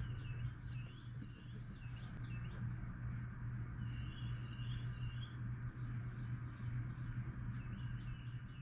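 Small birds chirping over and over in the background, over a steady low hum.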